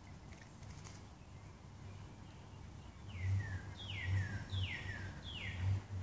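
A songbird calling four times in the second half, each call a clear whistle sliding down in pitch, over a low rumbling. The first half holds only faint outdoor background.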